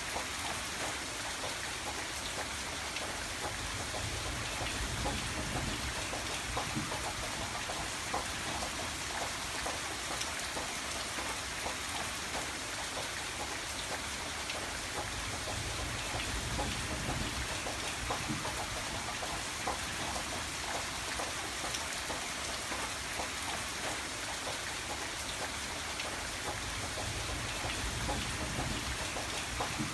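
Steady rain falling, with a dense patter of drops on a surface and a low rumble that swells and eases every few seconds.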